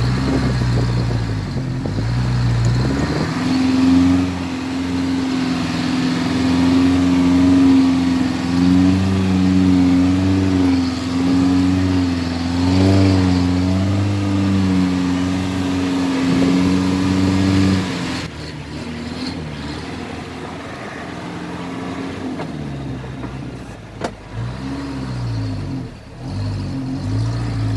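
Dump truck's diesel engine running hard with a steady drone that wavers slightly in pitch. About two-thirds of the way through it drops abruptly to a quieter, lower running, with a couple of sharp knocks near the end.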